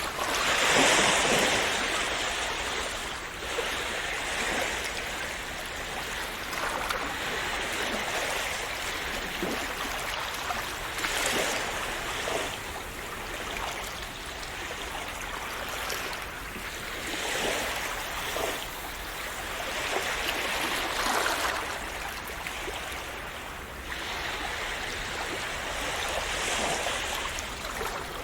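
Calm sea waves splashing and washing in a steady rush of water, swelling every few seconds; the biggest surge comes about a second in.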